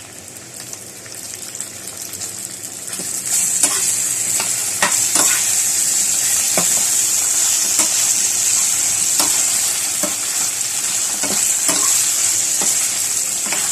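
Fried pork pieces sizzling in a hot pan as oyster sauce is cooked in, stirred with a utensil that clicks and scrapes against the pan. The sizzle grows louder about three and a half seconds in.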